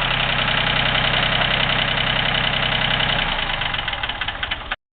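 Yanmar 226D compact diesel tractor engine idling steadily with a rapid diesel clatter. Near the end it grows weaker and uneven, then cuts off abruptly.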